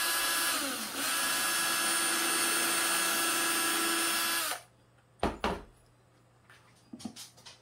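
Power drill running at speed into a pine board, a steady motor whine with a brief dip about a second in, stopping about four and a half seconds in. A single thump follows, then a few light knocks near the end.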